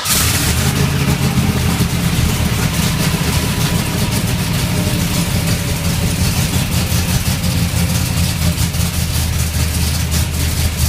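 A V8 engine idling steadily, its exhaust beating in a rapid, even pulse.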